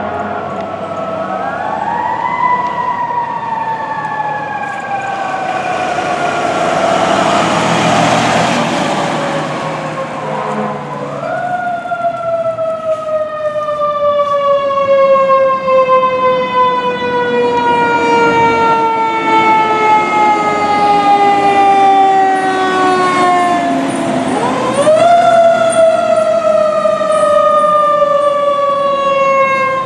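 Fire engine siren winding up three times, each rise followed by a long, slow fall in pitch. A broad burst of noise comes about seven to ten seconds in.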